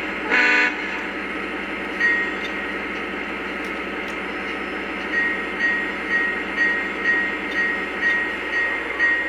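Sound system of a model Norfolk Southern Dash-9 diesel locomotive: steady diesel engine rumble with a short horn toot in the first second as it is cleared to depart, then a bell-like ring repeating about twice a second from about 5 seconds in.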